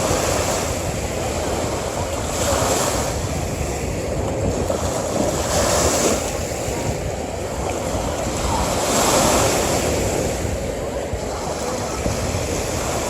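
Ocean surf: waves breaking and washing up the shore over a constant rush of water, swelling about four times, roughly every three seconds.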